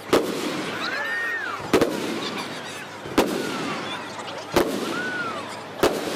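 Aerial firework shells bursting, five sharp bangs about a second and a half apart, with a busy noise between them. The recording plays at double speed, so it all runs fast and high.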